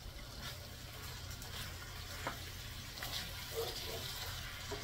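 Chicken, pineapple and sauce sizzling faintly in a cast iron skillet, with a few light scrapes and taps of a wooden spoon as it is stirred.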